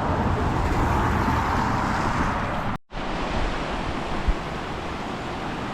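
Steady rushing of a river running full and fast after heavy rain, with wind rumbling on the microphone. The sound cuts out briefly nearly three seconds in.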